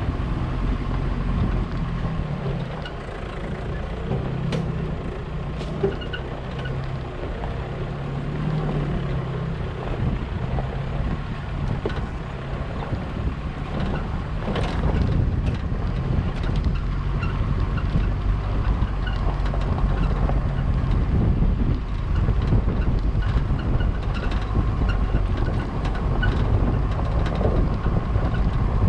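A vehicle driving, its engine running steadily under road and wind noise, with a few small rattles and clicks; the engine gets somewhat louder in the second half.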